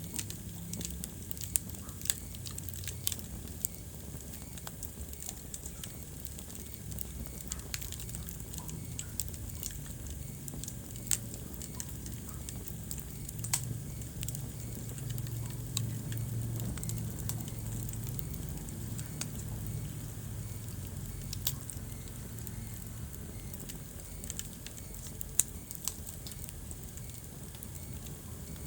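Wood fire burning in a fireplace: a steady low rumble of flames with irregular crackling and a few sharper pops from the burning logs.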